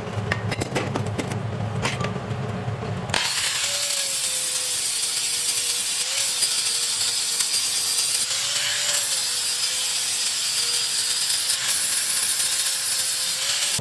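Handheld grinder grinding back silicon bronze braze fill on a steel motorcycle swing arm, starting about three seconds in with a steady rasping hiss; the motor's pitch dips briefly a few times as it is pressed onto the work. Before it, a low hum with a few clicks.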